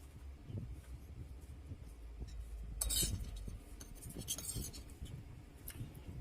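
Close-miked eating sounds: steady soft chewing, with cutlery scraping and clinking on a plate about three seconds in and again briefly a second later.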